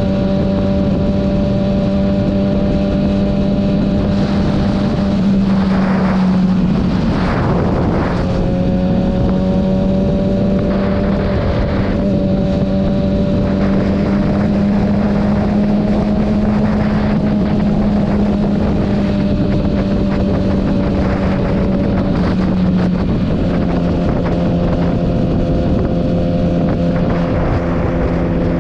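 Kawasaki ZX-6R inline-four sportbike engine running at a steady cruise with wind rushing over the helmet microphone. The engine note dips and recovers about seven seconds in and again near twenty-three seconds.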